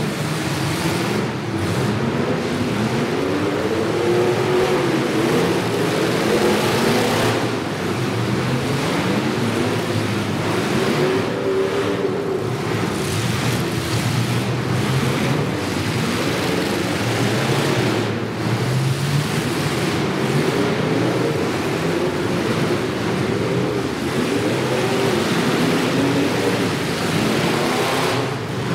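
Several demolition derby cars' engines revving at once, their pitch rising and falling again and again over steady noise.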